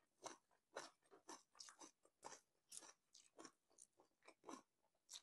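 Close-miked chewing with the mouth full: wet, irregular crunches and mouth clicks, about two or three a second.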